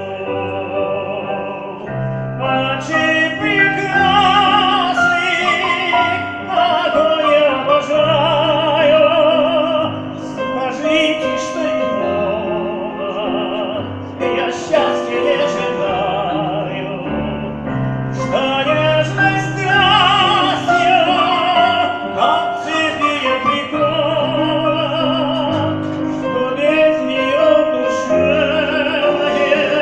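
A Neapolitan song sung in operatic style, the voice holding long notes with wide vibrato over piano accompaniment.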